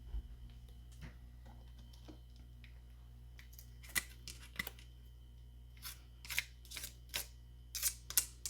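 A series of sharp clicks and light scrapes of hard objects being handled and set down, sparse at first and coming more often in the second half, over a low steady hum.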